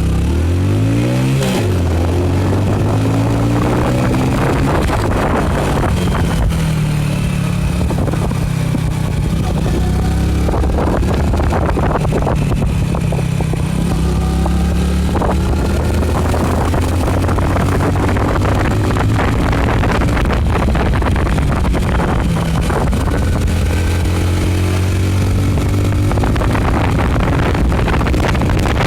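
Hero HF Deluxe motorcycle's small single-cylinder four-stroke engine pulling hard under full throttle. Its pitch climbs steeply in the first two seconds, then holds high through a few gear-like steps, with wind buffeting the microphone.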